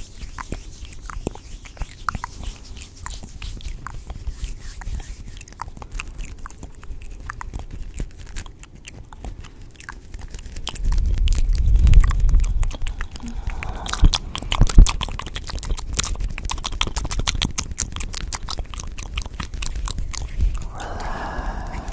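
Close-miked ASMR eating sounds: dense crunching and chewing clicks, growing louder and heavier about eleven seconds in.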